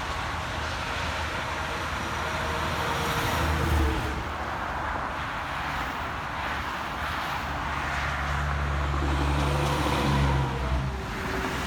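Road traffic passing on a highway: tyre noise and the low engine drone of trucks, loudest as one vehicle goes by about four seconds in and another, with a deeper and longer engine drone, about ten seconds in.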